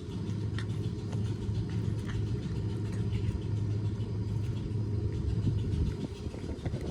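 Cat chewing on a pork rib: scattered small wet clicks and crunches over a steady low rumble.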